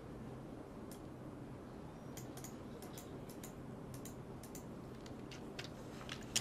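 About a dozen faint, irregular clicks from a computer keyboard and mouse, most of them in the second half, over a low steady hum of room noise.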